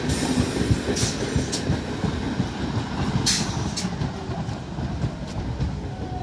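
Electric multiple-unit local train rolling past on the track as it pulls out of the station: a steady low wheel-and-rail rumble with a few short sharp clacks, the loudest a little past three seconds in.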